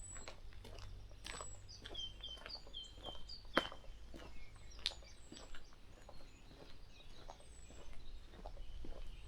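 Wild birds calling: short high whistles that slide down in pitch, and a quick run of chirping notes a few seconds in. Scattered sharp clicks and a steady low rumble sit beneath them.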